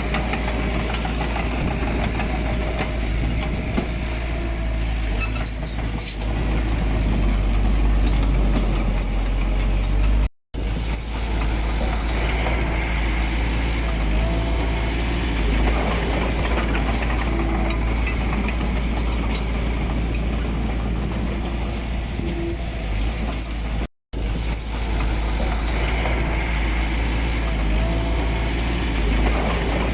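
Diesel engine of earthmoving machinery running steadily at work, with a deep low rumble. The sound cuts out abruptly twice, once about ten seconds in and once a few seconds before the end.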